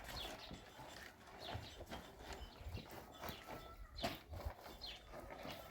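A few irregular light knocks and taps, the loudest about four seconds in, with birds chirping in short, high, falling notes.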